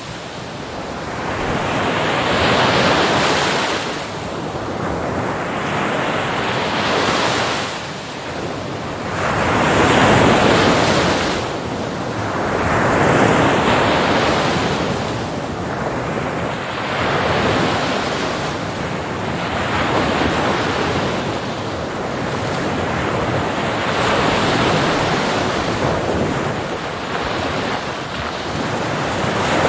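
Ocean waves breaking on a beach, the surf swelling and easing every few seconds in a continuous wash, with some wind noise on the microphone.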